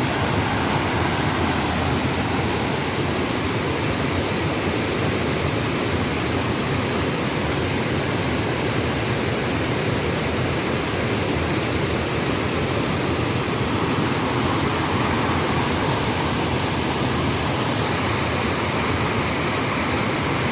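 Water of a waterfall and river rapids rushing in a steady, unbroken wash of noise.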